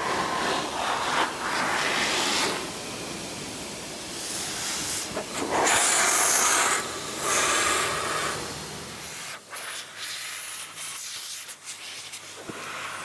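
BigBoi Blower Pro car dryer blowing a strong stream of air, a rushing hiss that swells and falls. About nine and a half seconds in, its deep low rumble drops away.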